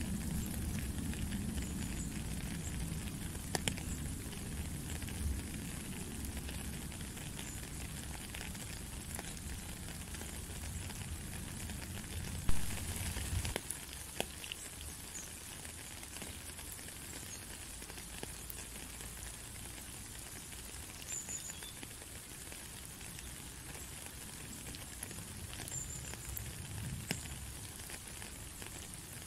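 Steady rain falling on a puddle and wet road, an even patter with scattered single drops. A low rumble underneath fades out about halfway, and one sharp tap stands out just before it.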